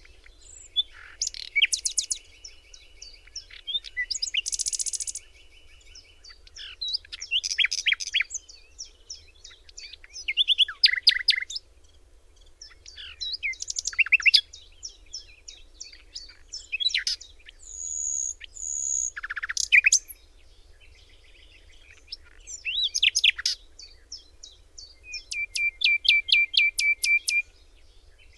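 Birdsong: a string of varied phrases of quick chirps, trills and whistles, about eight phrases separated by short pauses.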